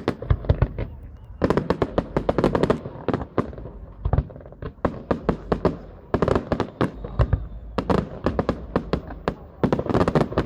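Fireworks display: volleys of sharp bangs and crackles, several a second, coming in dense clusters with short lulls between them.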